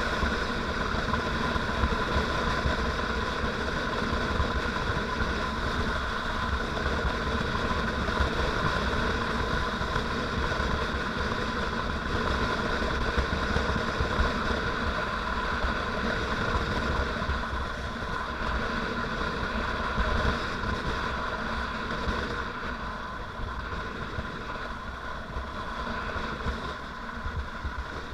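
Motorcycle engine running at a steady speed during a ride, getting a little quieter in the last few seconds.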